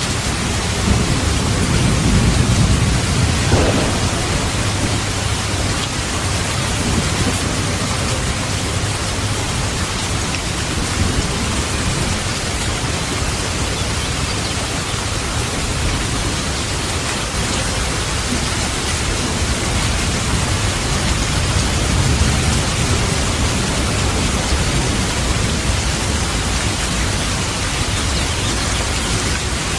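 Steady heavy rain with rolling thunder. A low rumble swells about a second in and dies away by about four seconds, and a softer rumble comes around two-thirds of the way through.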